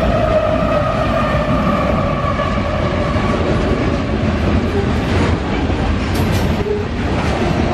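Canadian Pacific GE ES44AC diesel locomotive running past close by, its steady engine tone fading over the first three seconds or so, followed by the heavy rumble of long covered hopper cars rolling by, with a few wheel clanks.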